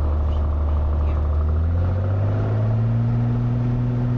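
Cessna 182's six-cylinder piston engine and propeller running loud in the cabin, rising in pitch about halfway through and then holding steady as power comes up for takeoff.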